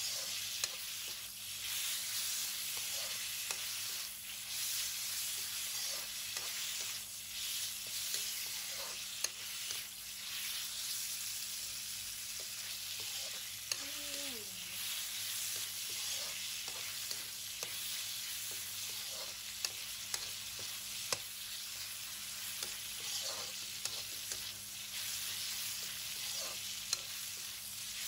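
Diced pork belly and garlic sizzling in hot oil in a wok, with a metal ladle stirring and scraping the pan, giving short clicks now and then over the steady hiss.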